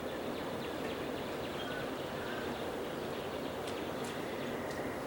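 1987 36-inch SMC Laguna ceiling fan running steadily on its high speed.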